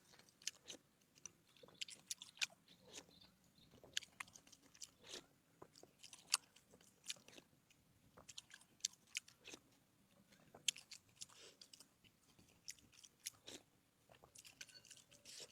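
Close-miked eating: a person biting and chewing crunchy food, with a quick, irregular run of sharp crackles and crunches.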